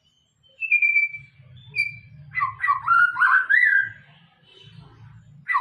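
White-rumped shama (murai batu) singing through its repertoire of learned songs: two clear, drawn-out whistles, then a fast run of warbled notes sweeping up and down. After a short lull the song starts again near the end.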